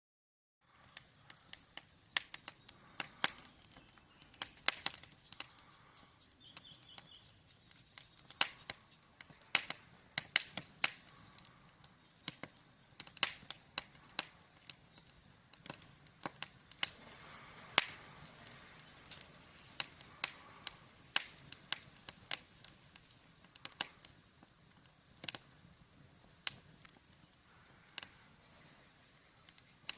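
Wood burning in a small fire pit, crackling with irregular sharp pops, a few a second and varying in loudness.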